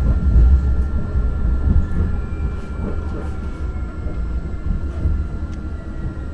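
Muni Metro light-rail car running along the track, heard from inside the car: a steady low rumble with faint, steady high tones above it.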